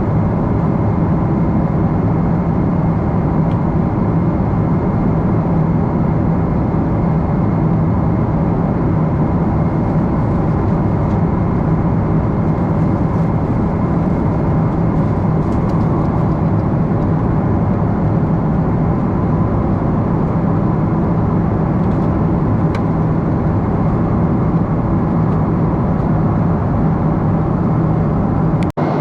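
Steady cabin noise inside a Boeing 777-300 airliner in flight: the even rush of engines and airflow with a low, constant hum. It drops out for an instant near the end.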